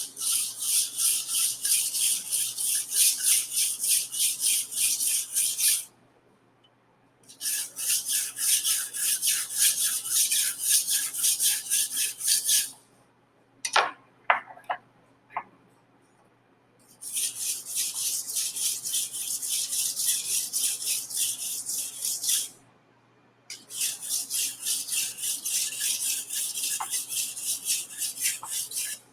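Steel chef knife blade being stroked across a tri-stone sharpening stone in rapid, even strokes, a hissing grind on each pass. It comes in four runs separated by short pauses, with a few light clicks during the middle pause.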